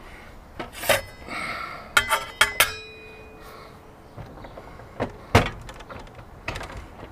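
Handling of tools and machine parts during an adjustment: a series of knocks and clicks, one of them about two and a half seconds in followed by a short metallic ring.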